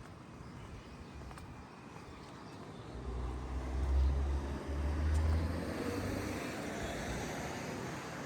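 A motor vehicle passing close by on a city street: a low engine rumble swells about three seconds in, is loudest over the next two seconds, then gives way to a fading rush of tyre noise.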